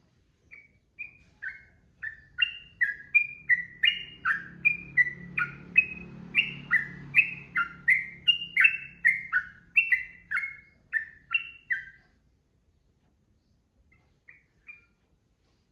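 Yellow-vented bulbul (trucukan) singing: a long, unbroken run of short, clear notes at about two a second, alternating high and low. The run stops about three quarters of the way in, and two short notes follow near the end.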